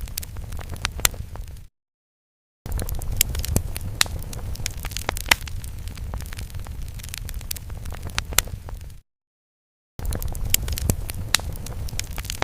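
Fire sound effect: a steady low rumble of flames with many sharp crackles and pops. It cuts to dead silence twice for about a second, around two seconds in and near nine seconds in, where the looped effect restarts.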